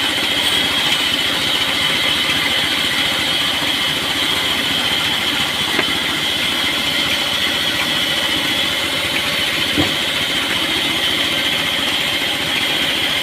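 Sawmill saw machine running steadily, with a constant high whine over a low pulsing drone. Two brief knocks come about six and ten seconds in.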